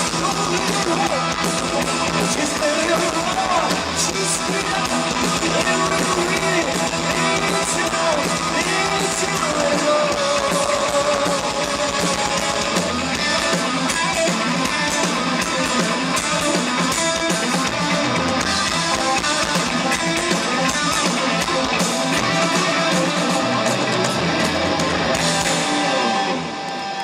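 Live heavy metal band playing loud through a PA: distorted electric guitars, bass and drum kit, with some singing. The music drops off right at the end.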